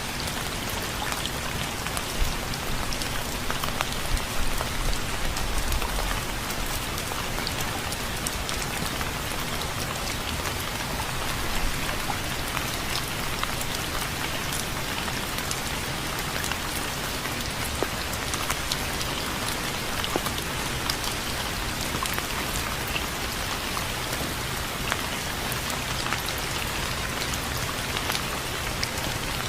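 Steady rain falling on a surface, an even hiss sprinkled with fine drop ticks, with a few louder low thuds between about two and six seconds in.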